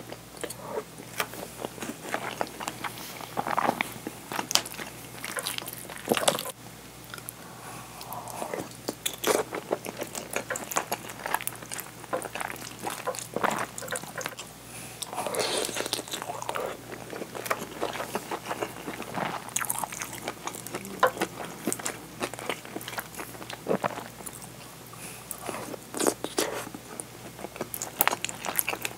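Close-miked eating of curry rice: wet chewing and crunching mouthfuls, with short irregular clicks from the wooden spoon working in the bowl.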